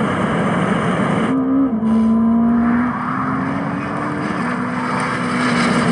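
Supercar driving at speed, a steady engine drone over road and wind noise. Its pitch steps up briefly about a second and a half in, then creeps upward and drops a little past the four-second mark.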